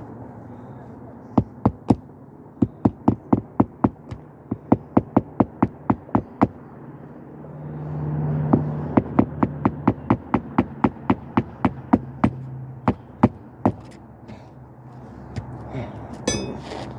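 Hammer driving roofing nails through a shingle: quick runs of sharp strikes, about three to four a second, with short pauses between nails. A low hum swells and fades in the middle.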